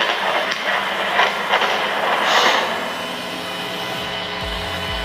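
Storm audio from lightning-strike footage: a steady loud hiss with a few sharp cracks in the first two and a half seconds, easing slightly toward the end.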